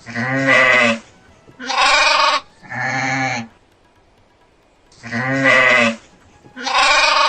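Goat bleating: three wavering bleats in quick succession, a pause, then the same three bleats again.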